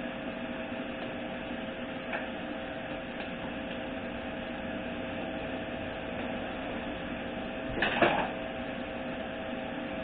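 Torque converter being worked onto a 4L60E automatic transmission: a faint click about two seconds in and a louder brief clunk near the end, over a steady background hum.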